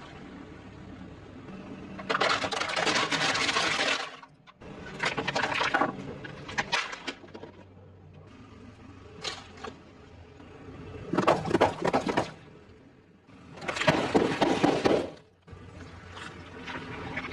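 Crunching of fried food being bitten and chewed, in four loud bursts of crackling with quieter gaps between.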